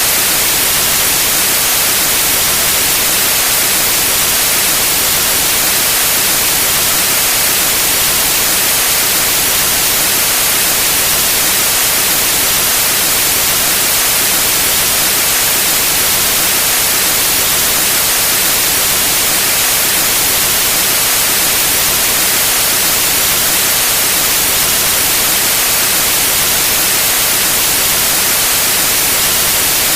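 Steady, unchanging white noise: an even hiss, brightest in the high frequencies.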